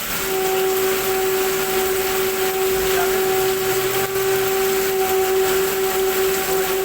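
CNC machine running a job: a steady motor whine holding one pitch over a constant hiss of machining noise.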